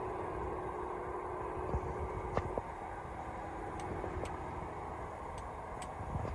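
Large farm tractor engine running steadily, with a hum that fades out about halfway and a few light clicks.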